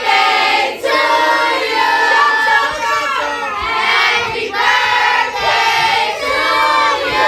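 A group of voices, adults and children, singing and shouting together, many voices overlapping.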